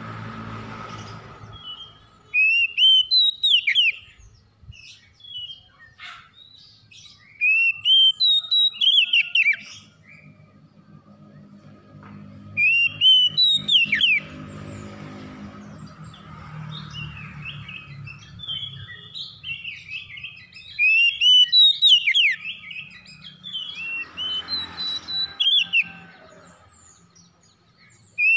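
Oriental magpie-robin (kacer) singing: loud phrases of clear whistled notes, rising glides and quick falling sweeps, in about five bursts with short pauses between them. A faint low hum runs underneath.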